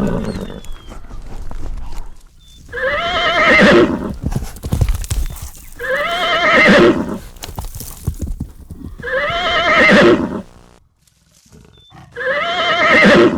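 A horse whinnying four times, about three seconds apart, each call a little over a second long and wavering in pitch. Low thumps sound between the calls.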